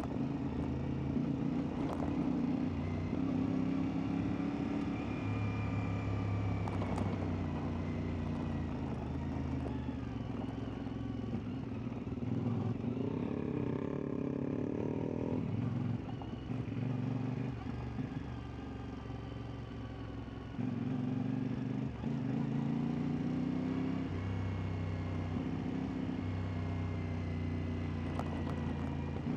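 CFMoto 450MT's parallel-twin engine running while the bike is ridden off-road, its pitch stepping up and down with throttle and gear changes. It eases off to lower revs for a few seconds past the middle, then picks up again sharply, with a few brief knocks along the way.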